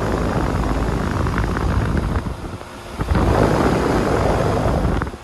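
2005 Goodman CKL 2-ton air-conditioner condensing unit running just after start-up, its Copeland reciprocating compressor and condenser fan giving a loud, gusty rumble. The rumble dips briefly about halfway through and drops off suddenly at the very end.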